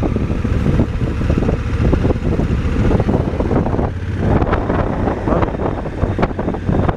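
Motorcycle engine running while riding a dirt road, with wind buffeting the microphone. Several sharp knocks come in the second half.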